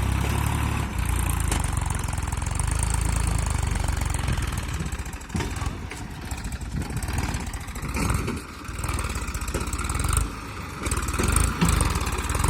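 Massey Ferguson tractor's diesel engine running, steady for the first five seconds or so, then rising and falling unevenly through the second half.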